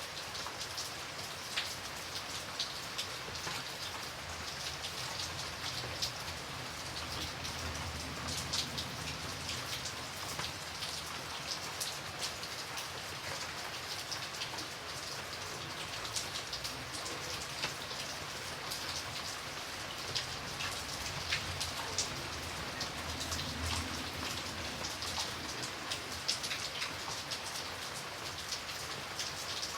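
Steady rain falling on a surface: a dense hiss with many sharp drop ticks. A soft low rumble swells briefly twice.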